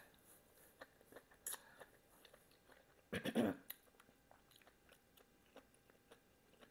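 Close-miked mouth sounds of chewing a cooked green vegetable stalk: soft wet clicks and light crunches. About three seconds in there is a short hummed "mmm".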